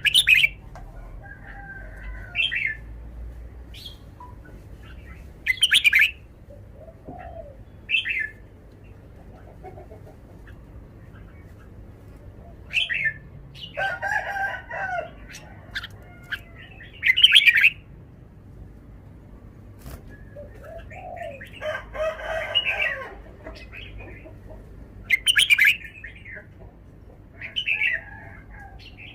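Red-whiskered bulbul singing short, loud phrases every couple of seconds. Twice a longer, lower call from another bird comes in.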